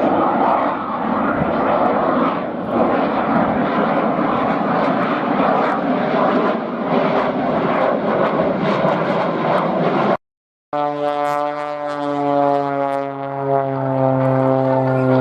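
Loud, even aircraft roar for about ten seconds. Then, after an abrupt cut, the piston engine and propeller of a Muscle Pitts aerobatic biplane drones on one steady note that slowly falls.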